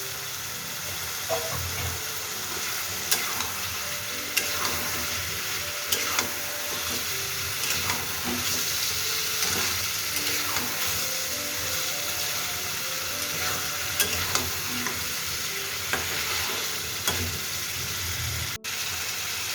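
Chicken pieces sizzling as they fry in oil and spiced masala while being stirred, with now and then a sharp knock on the pan.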